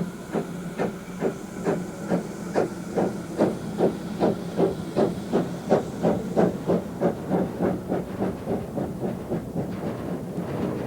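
Narrow-gauge steam locomotive (the Welshpool and Llanfair Railway's No. 2, The Countess) working a train, its exhaust beating out regular chuffs about two or three a second over a steady hiss, fading near the end.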